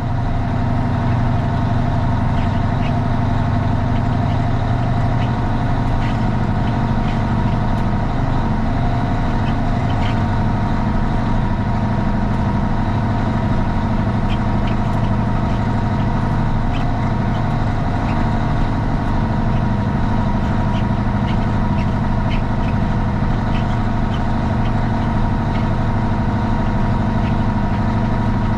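Straight-piped Cummins ISX inline-six diesel in a Kenworth T800 idling steadily, heard from inside the cab.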